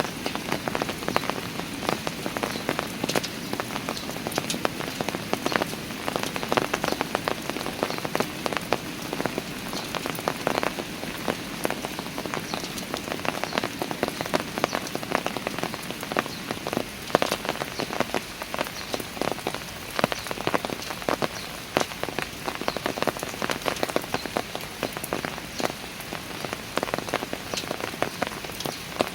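Steady rain falling on stone park steps, with dense close drips and splashes ticking over the even hiss of the downpour.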